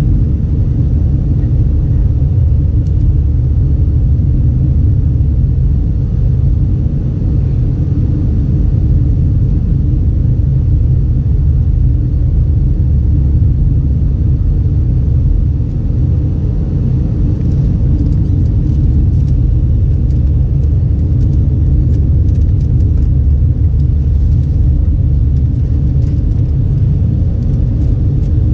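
Steady deep rumble heard from inside a moving vehicle, even in level throughout, with faint light ticks in the second half.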